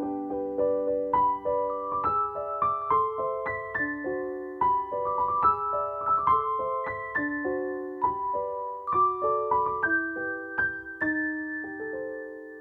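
Background piano music: a gentle line of single notes stepping up and down, a few per second, settling on a long held note that fades out near the end.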